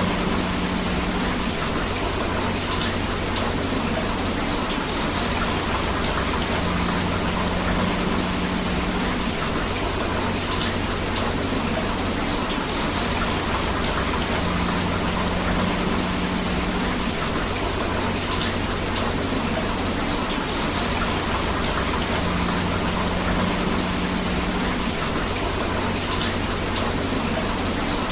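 Steady rain together with flowing river water, an even unbroken hiss.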